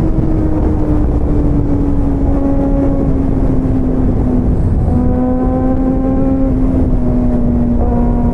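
Motorcycle engine running at riding speed under heavy wind rush; its steady note slowly sags, then steps up about five seconds in and again near the end.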